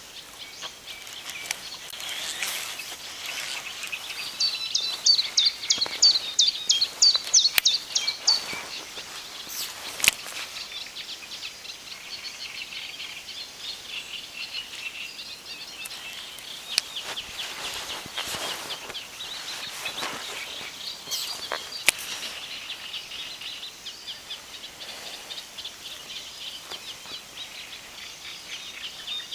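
Songbirds singing in waterside woodland, with a loud run of quick, high repeated notes lasting a few seconds about five seconds in, and a few sharp clicks.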